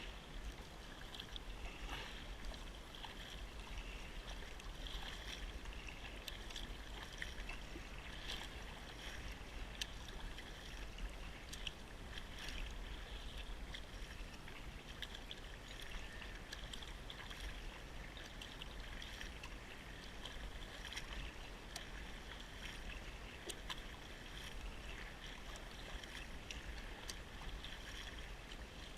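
Faint water lapping and trickling, with scattered small clicks and crackles, over a low rumble.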